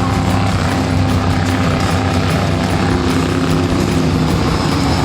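Monster truck engine running as a steady, heavy drone, with arena music underneath.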